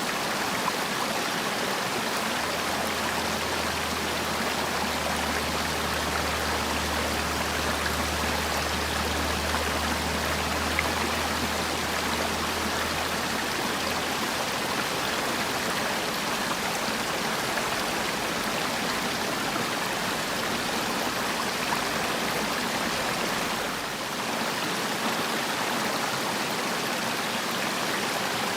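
Valley stream water rushing steadily over rocks. A faint low hum sits under it for the first half.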